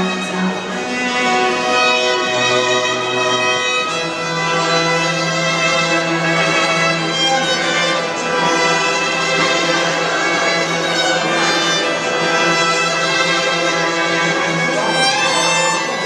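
String quartet playing, violins over a low sustained note that is held steadily from about four seconds in.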